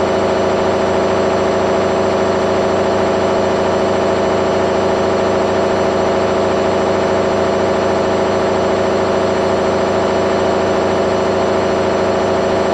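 Candy front-loading washing machine in its final spin at high speed, about 900 rpm, running loud and steady with a constant hum. The owner calls it very noisy and worried the machine might break.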